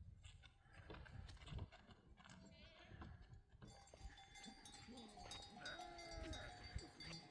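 A flock of sheep and goats bleating faintly, with a few short wavering calls in the second half, over a low rumble of wind and handling noise.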